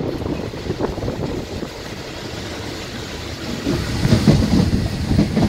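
A moving passenger train running along the track, a low rumble of wheels on rails with wind buffeting the microphone, growing louder about three and a half seconds in.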